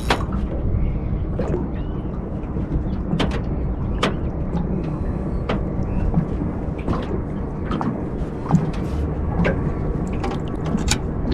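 Water sloshing and dripping over a steady low rumble, with scattered sharp clicks and knocks.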